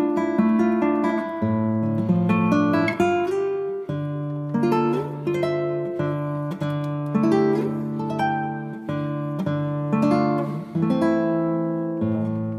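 Soft background music on plucked acoustic guitar, notes picked one after another.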